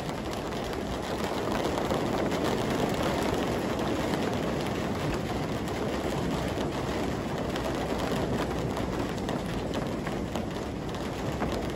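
Heavy rain pouring down: a steady, dense hiss flecked with fine pattering of drops striking hard surfaces, growing a little louder about two seconds in.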